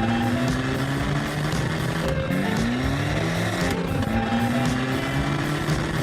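Engine sound effect of a truck revving up again and again, its pitch climbing and dropping back about every two seconds, over background music.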